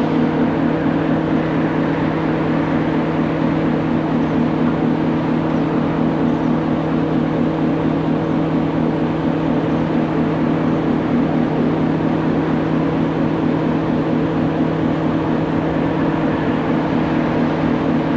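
Heavy truck engine running steadily, a constant drone with a strong low hum.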